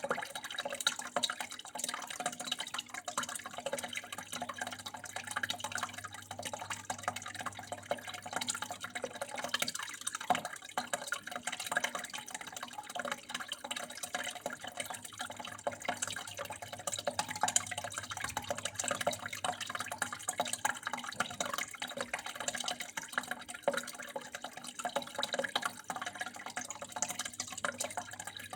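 Water flowing and trickling without a break, a continuous patter of many small drips and splashes, with a faint steady low hum underneath.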